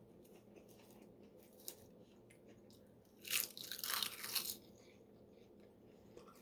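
Close-up crunching and chewing of a bite of seaweed-wrapped rice and shrimp: a cluster of crisp crackles for about a second, a little past halfway, with quiet chewing around it.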